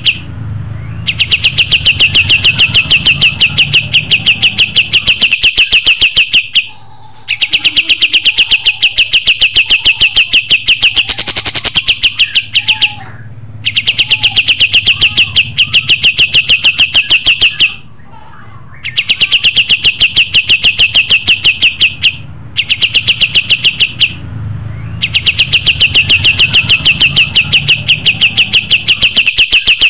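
Kapas tembak songbird singing its loud rapid-fire song: fast, evenly repeated high notes in runs of several seconds, broken by short pauses.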